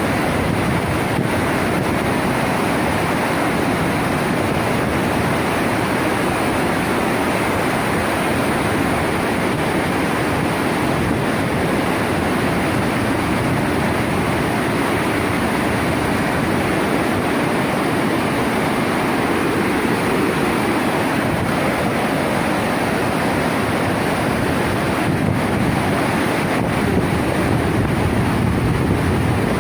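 Steady loud rush of floodwater: a torrent in spate after heavy rain, flowing without letting up.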